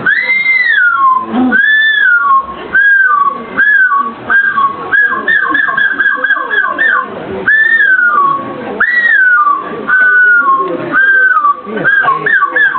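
A man imitating a seagull's calls by mouth: a loud run of yelping calls that rise and fall in pitch, with quicker runs of short calls, about five a second, a few seconds in and again near the end.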